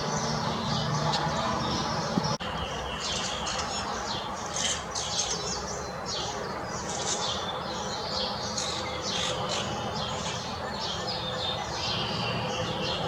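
Several small songbirds chirping and calling at once, a dense run of short overlapping chirps and trills, with one sharp click about two seconds in.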